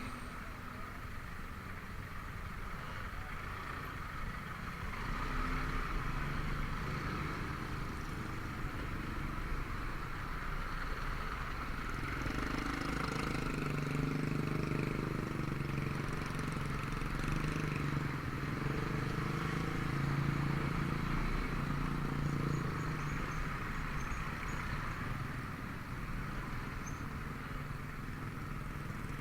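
Honda Vario 125 scooter's single-cylinder engine running steadily while riding, mixed with road and wind noise. A low hum grows stronger in the middle of the stretch.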